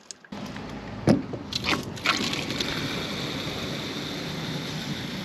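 Water running from a hose into a snow foam lance bottle, filling it up, with a couple of knocks about one and two seconds in.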